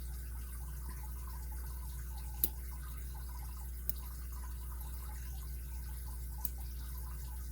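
A lock pick working the pins of a Kryptonite padlock's six-pin core: three faint sharp clicks, the loudest about two and a half seconds in, over a steady low hum.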